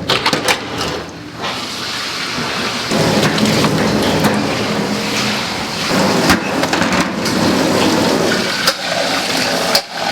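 Tap water running hard into a sink while dishes are washed, with a few sharp clinks of dishes and utensils knocking together.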